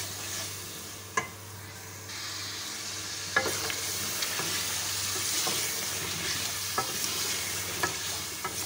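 Chicken and potato pieces sizzling as they fry in oil and tomato paste in an aluminium pot while a wooden spoon stirs them. There are a few sharp knocks of the spoon against the pot, and the sizzling grows louder about two seconds in.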